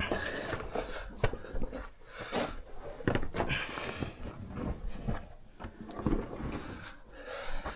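Shoes and hands scuffing and knocking on rock in irregular bursts as a person climbs up a cave canyon wall, with short scrapes between the knocks.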